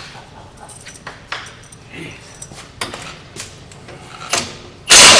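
Metal tools and brake parts clinking and clanking, then near the end a sudden, very loud burst from an impact wrench.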